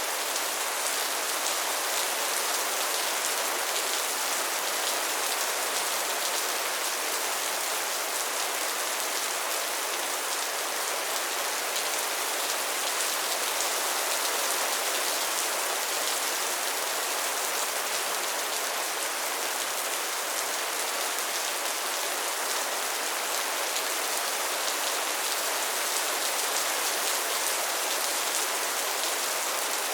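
Steady rainfall: an even hiss of rain with many fine drops pattering on a surface, unchanging throughout.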